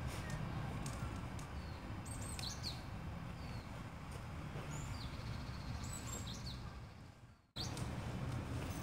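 Small birds chirping with short high calls, scattered through the trees, over a steady low background rumble. Near the end the sound fades away and then cuts back in suddenly.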